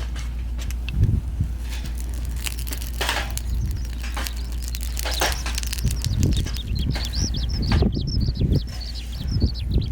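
Scattered crackling and rustling, then a small bird chirping rapidly and repeatedly over the last few seconds.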